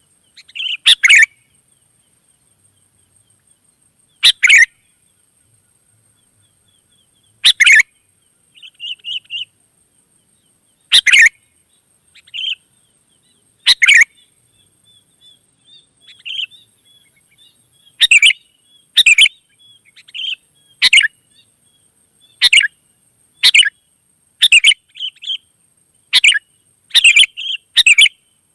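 Sooty-headed bulbuls calling: short, loud, clear phrases every few seconds, coming faster in the second half, with softer chattering in between.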